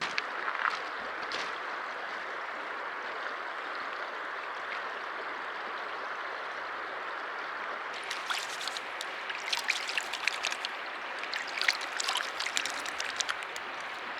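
Running water from a stream flowing steadily, with a cluster of sharp clicks and ticks over its second half.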